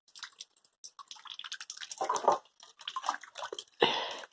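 Rainwater being poured from a container onto garden plants, splashing and dripping in irregular spurts, loudest near the end.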